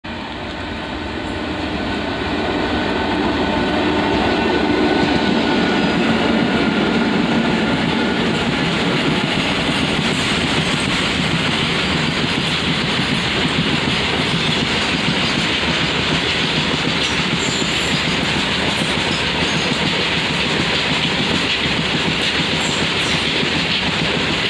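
Goods train hauled by twin Indian Railways WAG electric locomotives passing close by. The locomotives' steady hum comes first as the sound builds over about three seconds. The wagons then roll past with a continuous clatter of wheels on the rails.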